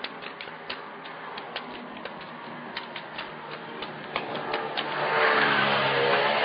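A car approaching and passing, its engine and tyre noise growing louder from about four and a half seconds in, over irregular light clicks a few times a second.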